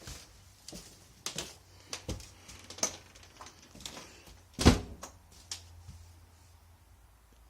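Scattered knocks and clicks, with one loud thump a little past halfway.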